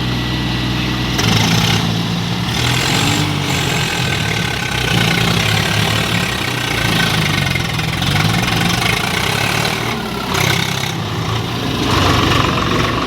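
Tractor engine running steadily, its pitch shifting up and down now and then.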